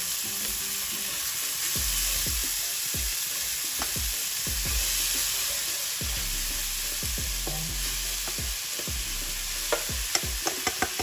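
Grated pumpkin, onion and garlic sizzling in olive oil in a stainless steel frying pan, a wooden spoon stirring and scraping through them with irregular knocks against the pan. A few sharp clicks near the end.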